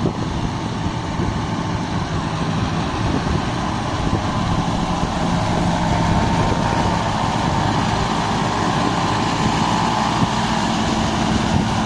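Kubota 5501 tractor's diesel engine running steadily, with a thin whine above the engine note that grows stronger about halfway through.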